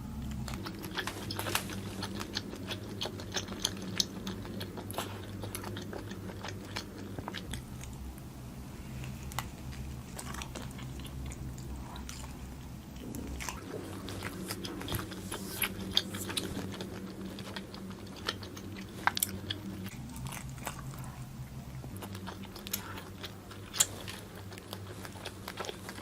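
A person chewing and biting barbecued food close to the microphone, with many small crisp clicks and crunches throughout over a steady low hum.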